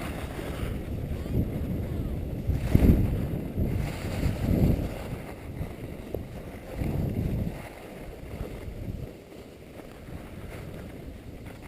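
Wind rumbling on the microphone, rising and falling in uneven gusts.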